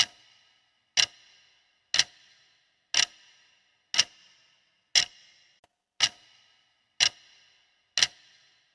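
Countdown-timer clock-tick sound effect: a sharp tick exactly once a second, each with a brief ringing tail, marking the time allowed to answer.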